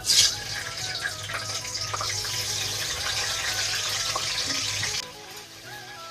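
A whole large chilli frying in hot oil: the sizzle starts suddenly as it goes into the pan, runs steady, then falls away about five seconds in.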